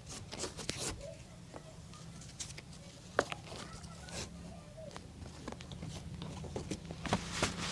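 Scattered light clicks and taps of hand work on a boot during shoe-shine restoration, over a low steady hum, with one sharper tap about three seconds in.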